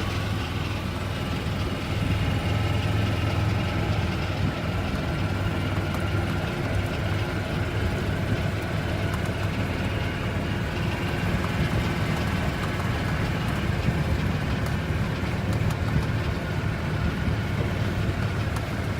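Steady engine and road noise of a moving vehicle, a continuous low hum.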